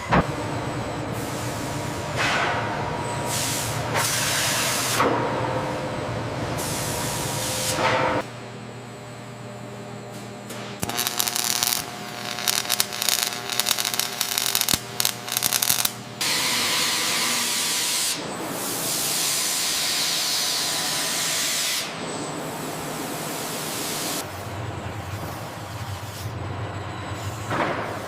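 A run of long hissing bursts, the first few sweeping in pitch and a bright one about two-thirds through, with a stretch of rapid, irregular clicking and clattering in the middle.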